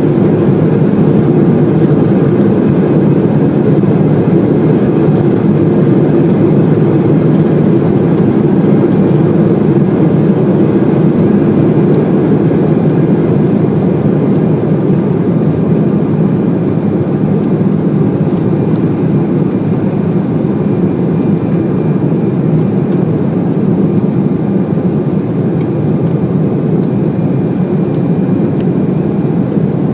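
Embraer E190's twin turbofan engines and airflow heard inside the passenger cabin: a loud, steady, low rumble with a faint steady whine above it, easing slightly over the span.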